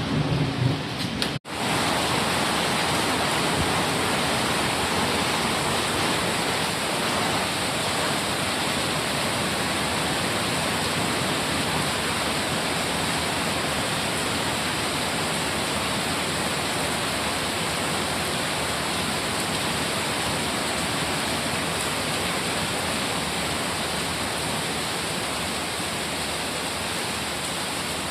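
Heavy rain falling steadily, a dense, even hiss. It cuts out for an instant about a second and a half in, then carries on unchanged.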